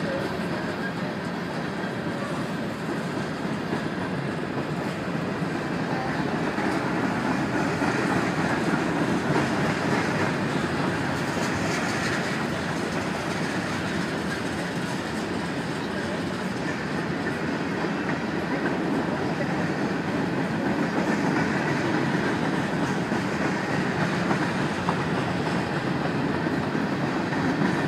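Freight train's covered hopper and tank cars rolling past, steel wheels running on the rails in a steady, unbroken rumble.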